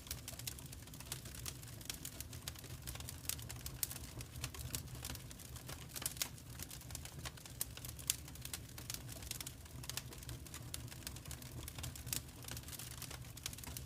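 Wood fire in a fireplace crackling, with many irregular sharp pops and snaps over a steady low rumble of the burning.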